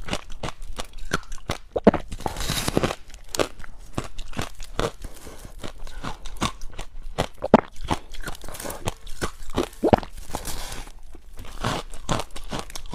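Deep-freezer ice being bitten and chewed close to the microphone: dense, irregular cracking and crunching throughout, with a couple of longer grinding crunches.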